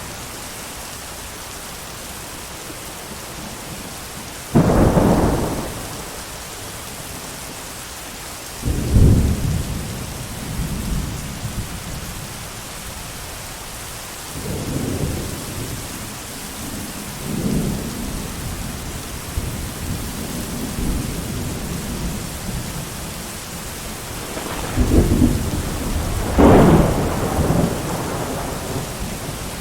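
Thunderstorm: steady rain hiss with a sharp thunderclap about four seconds in, several low rolling rumbles of thunder in the middle, and two loud claps in quick succession near the end.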